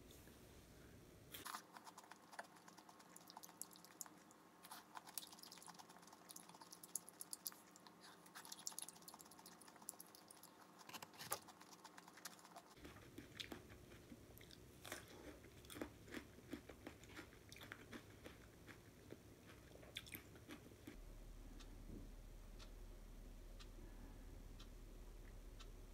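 Crisp crunching and chewing of raw Korean melon (chamoe) slices, a quick run of sharp crunches and clicks that thins out after about twenty seconds.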